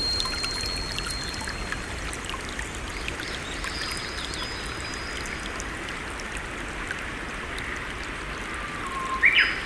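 A stream running steadily, with a few thin, high whistling tones over it and a brief, loud chirp near the end.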